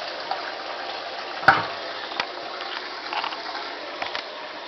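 1986 General Electric washing machine filling with cold water: a steady rush of water pouring into the tub, with a knock about one and a half seconds in and a lighter click shortly after.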